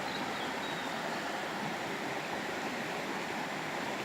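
River water rushing steadily over rocks. A short, faint high bird note sounds just after the start.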